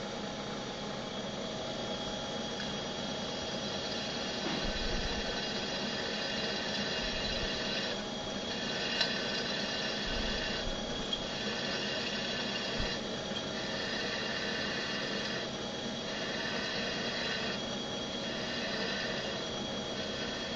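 Comet 3KVHD milling machine spindle running steadily, drilling holes in soft aluminum. From about eight seconds in, a higher cutting tone comes and goes in stretches of about two seconds as the bit is fed into the metal, several times over.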